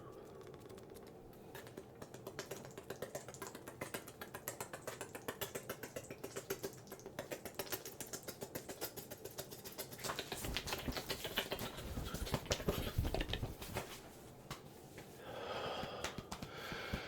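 ASMR mic brushing: a brush swept fast and repeatedly over the microphone in a quick run of scratchy, clicking strokes. For a few seconds past the middle the strokes hit harder, with a deeper thud.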